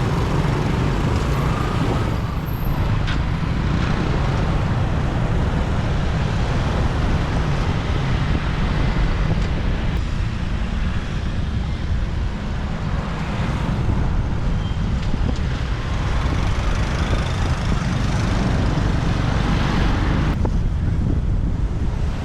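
Steady road and traffic noise from a motorbike riding through city streets, with a constant low rumble throughout.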